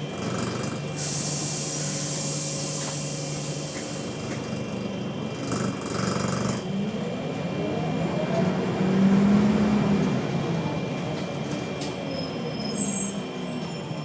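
Wright Solar single-decker bus heard from inside, engine running with the steady buzz it makes whenever the engine is on. About a second in comes a hiss of released air lasting a few seconds, and later the engine revs up and eases back down.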